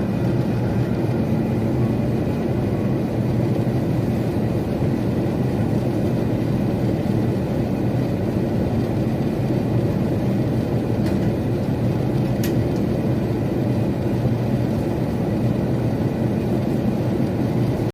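Steady drone of an airliner cabin in flight: engine and airflow noise heard from inside the passenger cabin, with a faint click about twelve seconds in.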